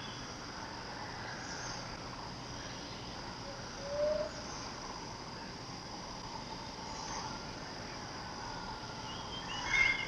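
Forest ambience with a steady high drone of insects. A bird gives a short rising low call about four seconds in, and a louder burst of higher chirps comes near the end.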